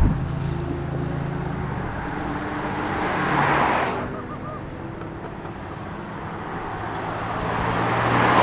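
Cars passing by on the road, engines running with a steady note; one car's sound swells and fades about three and a half seconds in, and another builds up near the end. A brief low thump right at the start.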